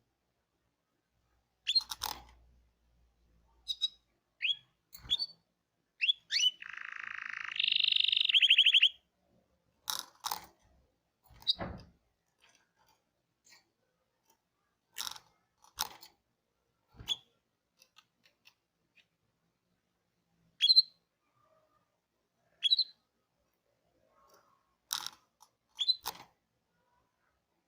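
Domestic canary singing in short, separate chirps with gaps of silence between them, and one longer phrase about six seconds in: a buzzy stretch that breaks into a louder, fast trill.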